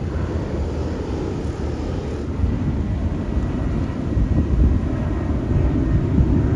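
Boeing 767-400ER's twin General Electric CF6 turbofans at departure power: a low, steady jet rumble that grows slightly louder in the second half.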